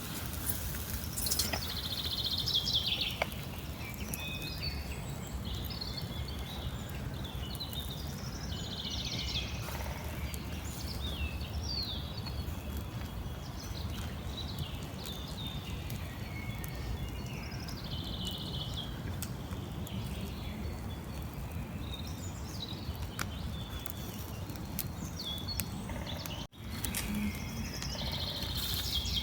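Small birds chirping and trilling again and again over a steady low rumble of outdoor background noise, with a brief dropout near the end.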